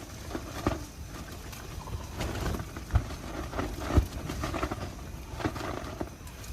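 Irregular clatter and knocks of cookware, with two louder thumps about three and four seconds in, over a low rumble of strong wind.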